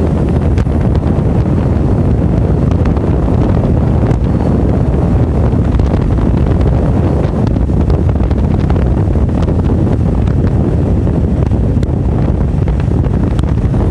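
Loud, steady wind buffeting a camera microphone on a moving motorcycle, a low rumbling noise that masks the engine.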